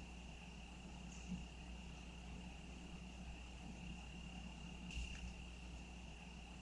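Crickets trilling in one faint, steady, high-pitched drone. Two short soft noises stand out, about a second in and about five seconds in.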